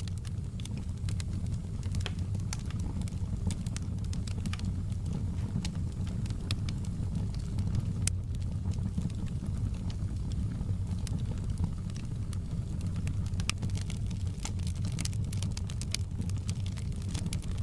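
Wood fire crackling in a fireplace: a steady low rumble of the flames with frequent small sharp pops and snaps.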